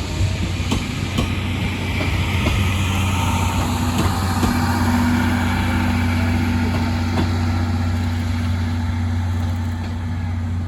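Passing train giving a steady low mechanical drone, with a few sharp rail clicks in the first few seconds.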